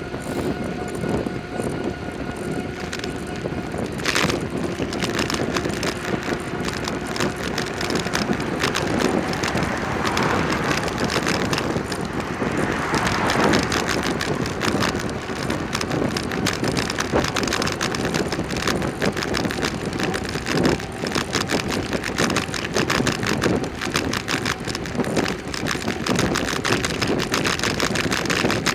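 Bicycle being ridden on the road: steady tyre and road noise with a constant light rattle, and wind on the microphone. A swell of louder noise rises and falls about ten to fourteen seconds in.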